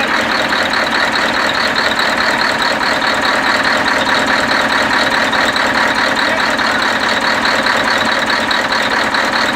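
A heavy vehicle's engine running steadily, with a quick regular pulsing in its higher tones.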